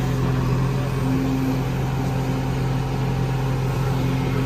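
JCB 3DX backhoe loader's diesel engine running at a steady speed.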